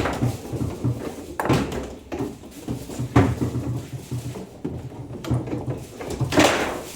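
Table football (foosball) play: the ball clacking against the player figures and table walls, and the rods knocking. There are several sharp, hard strikes, the loudest about three seconds in and another near the end.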